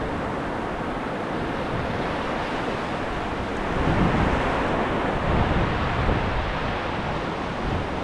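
Small ocean waves breaking and washing up the beach on a calm day, swelling about four seconds in and again a little later. Some wind rumble on the microphone underneath.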